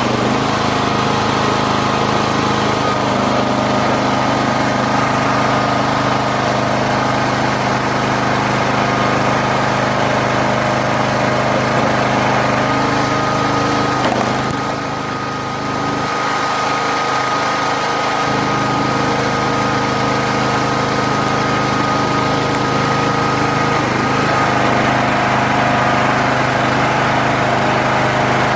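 Gasoline engine of a hydraulic log splitter running steadily, with a brief drop in level and a change in tone about halfway through.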